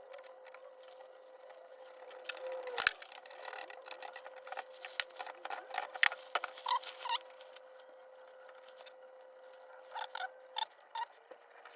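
Metal gearbox parts of a Honda CR125 two-stroke clicking and tapping as the shafts and gears are handled and fitted into the crankcase: irregular light knocks, the sharpest about three seconds in, with a steady faint hum underneath.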